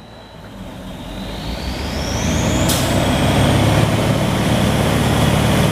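Water-well drilling rig running up: its engine builds in loudness with a rising whine. A sudden sharp hiss comes about halfway in, and then the rig runs on loud and steady.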